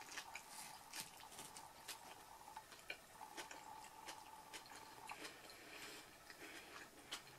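Faint close-miked chewing of a soft, soggy grilled veggie wrap: quiet wet mouth clicks and smacks scattered through, over a faint high hum that comes and goes.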